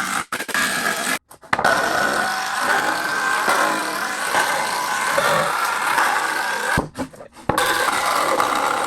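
A power tool running as it works wood, a steady loud noise that cuts off abruptly twice, about a second in and again around seven seconds in.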